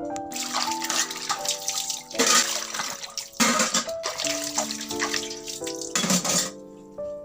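Water running from a tap into a sink, stopping shortly before the end, under background music of held melodic notes.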